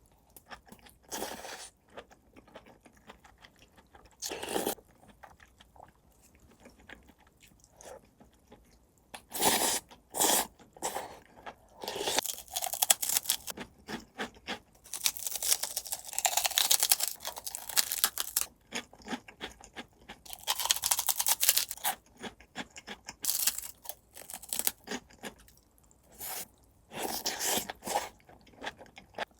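Close-miked eating: a person biting and chewing crisp food with loud crunches, in irregular clusters with short pauses, sparse at first and coming thicker from about a third of the way in.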